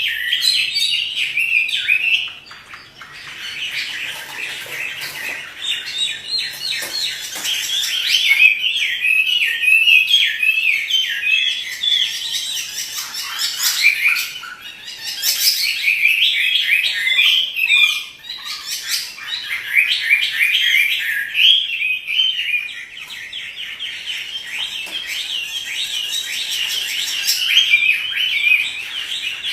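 Hwamei (Chinese melodious laughingthrush) in full song: a long, fast run of rapidly changing whistled notes, broken by a few short pauses.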